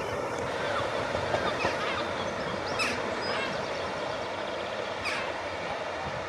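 A train running through the station, a steady rumble and rush of wheels on rail that gradually gets quieter, with a few short high squeaks and chirps over it.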